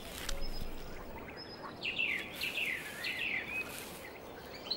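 Bird calls: a run of short, high, falling chirps, thickest about two to three and a half seconds in, over a steady outdoor background hiss.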